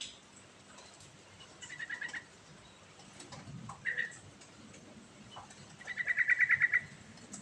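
Sooty-headed bulbul singing: short bubbling phrases of quick notes about two seconds in and again about four seconds in, then a louder rapid trill of a dozen or so quick repeated notes near the end.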